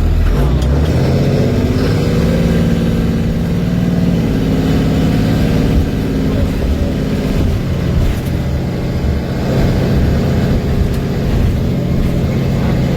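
Blue Bird TC3000 bus's Cummins ISB 6.7 inline-six turbo diesel running, its pitch climbing over the first couple of seconds, holding, then dropping lower a little past halfway.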